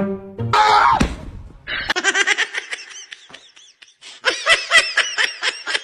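Person laughing in quick, rapid bursts, starting about two seconds in and growing louder near the end; a short noisy burst comes before it.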